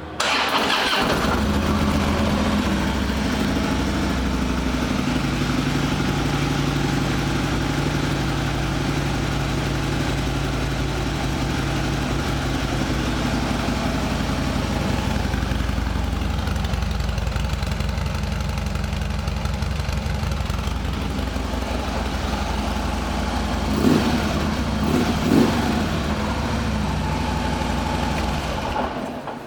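A 2016 Harley-Davidson Electra Glide Ultra Limited's V-twin engine is started and catches almost at once, then idles steadily. Near the end there are two short throttle blips, and the sound stops just before the end.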